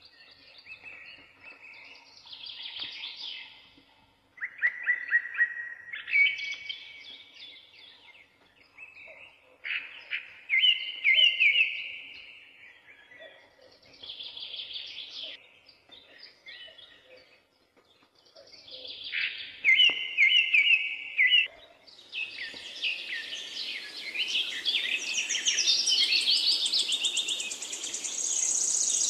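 Birds singing: short repeated chirping phrases and quick falling trills, with several birds overlapping more densely and a steady hiss underneath from about 22 seconds in.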